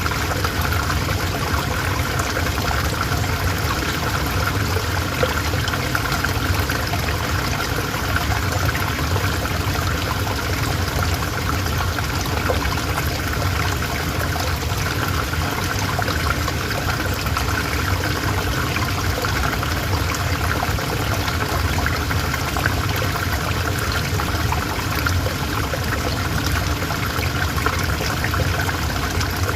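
Calm river flowing: a steady, even rush and trickle of running water.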